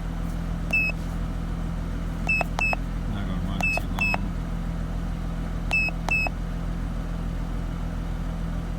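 Mercedes SLK 320's 3.2-litre V6 idling steadily, with short electronic beeps, several in quick pairs, from a diagnostic scan tool being keyed through its menus.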